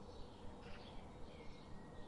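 Faint outdoor ambience: small birds chirping softly and repeatedly over a low rumble.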